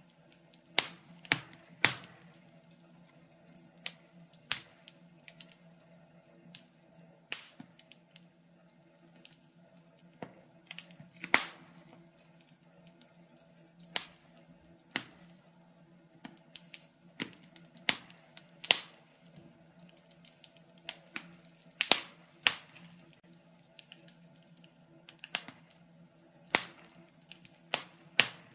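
Wood fire in a fireplace crackling: sharp, irregular pops and snaps, a few loud, over a faint steady low hum.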